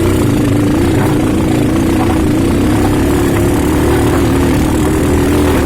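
Motorcycle engine running steadily at an even speed, its note wavering slightly.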